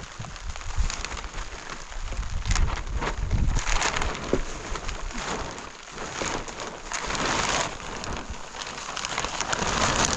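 Rain falling, with scattered sharp ticks of drops and an uneven low rumble.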